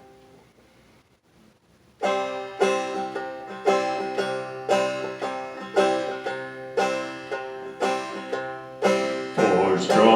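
Banjo played two-finger style, picking a steady instrumental intro that starts about two seconds in, with clear plucked notes about twice a second. Near the end another pitched part joins in.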